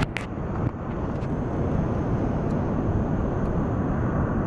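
Steady low outdoor rumble, with two sharp clicks right at the start.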